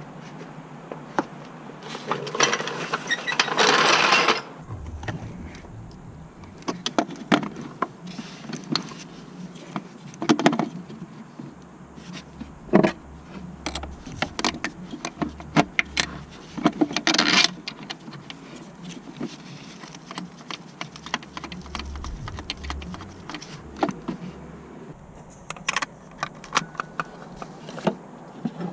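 Metal tools and car parts clicking, clinking and knocking in irregular bursts during mechanical work, with a short rasping noise a few seconds in.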